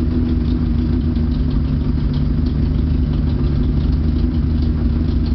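V12 motorcycle engine idling steadily, with a light rapid ticking above the low steady note.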